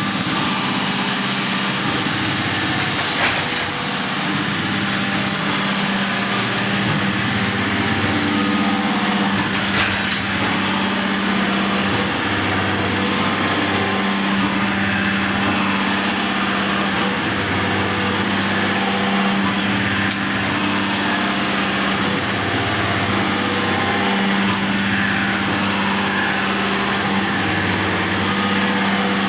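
3Б722 surface grinder running: a steady electric-motor hum over a broad mechanical whir, with a couple of sharp clicks about three and ten seconds in.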